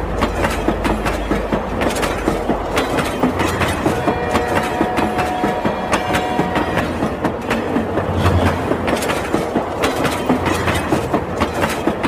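Train running sound: fast, rhythmic clickety-clack like wheels over rail joints, with a steady horn-like tone held for a couple of seconds about four seconds in.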